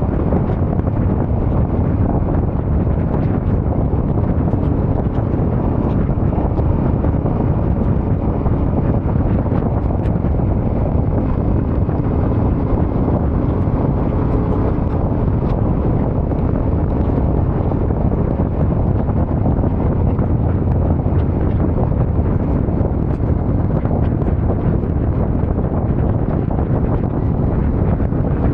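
Steady wind rush buffeting the microphone of a moving Yamaha Ténéré 700 adventure motorcycle, with the bike's engine running underneath.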